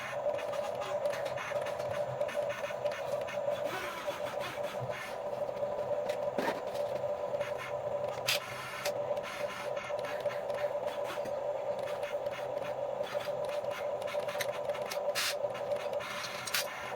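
Huina 1550 RC excavator's small electric motors and gearboxes whirring steadily, with a few sharp clicks and scrapes.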